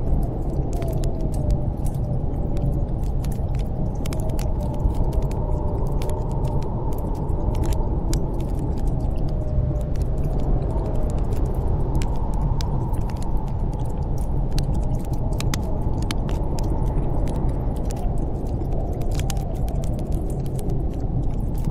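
Steady howling snowstorm wind with a faint wavering whistle, over the irregular sharp crackle and pops of a wood fire burning in a fireplace.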